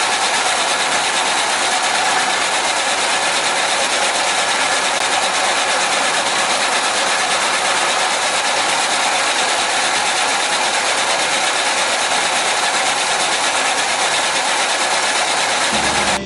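A machine running steadily and loudly, an even mechanical noise that does not change.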